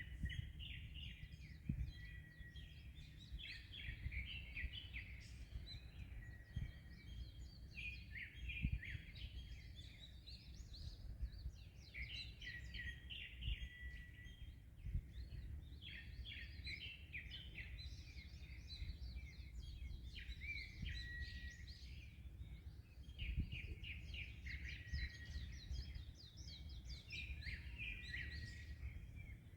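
Small birds singing and chirping in quick, overlapping short phrases, over a steady low rumble of wind and sea.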